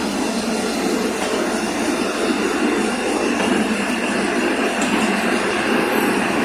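A train running along the track, a loud steady noise of wheels on the rails.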